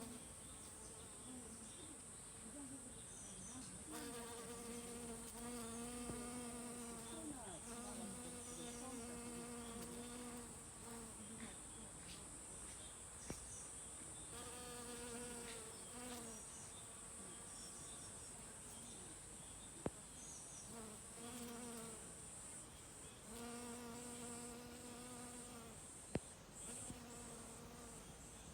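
Worker honeybees buzzing as they fly among hydrangea flowers, their wingbeat hum swelling and fading every few seconds as bees pass close. A steady high-pitched whine runs under it, with a few faint clicks.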